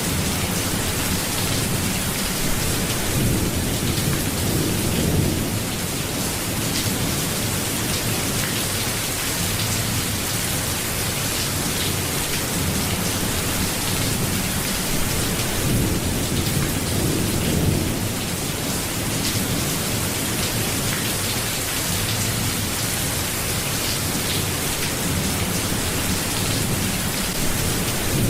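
Steady rain falling on a surface, an even hiss of drops, with a deep low rumble swelling and fading a few times, around four seconds in and again about sixteen seconds in.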